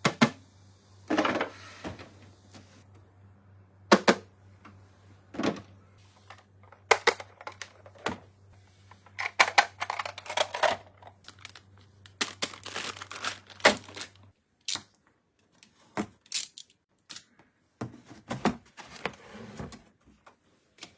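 Toy packaging and plastic parts being handled and unboxed: irregular sharp clicks and taps with short rustles and crinkles in between.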